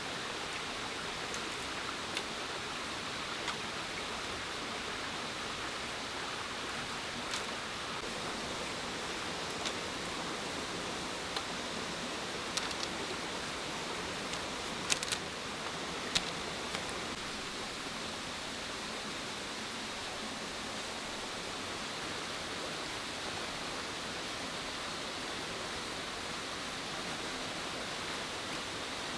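Steady rushing water noise, even and unbroken, with a few sharp light clicks and taps in the middle.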